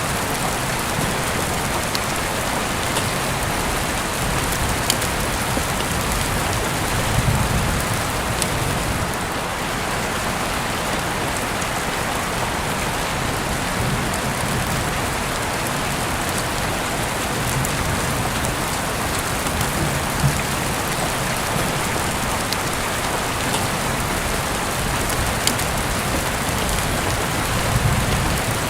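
Heavy rain falling steadily, heard through an open window, with a dense hiss and scattered sharp drips and taps. Low rumbles swell briefly twice, about seven seconds in and near the end.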